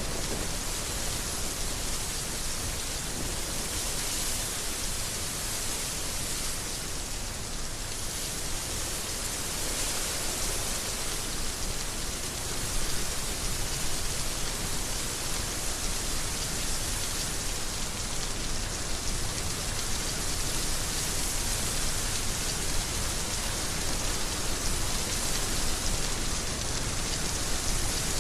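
Heavy rain falling steadily: a dense, even hiss with no single drops or thunder standing out, a little louder about 12 seconds in.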